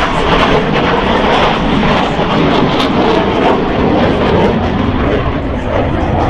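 Loud, steady jet noise from Blue Angels Boeing F/A-18E/F Super Hornets passing overhead.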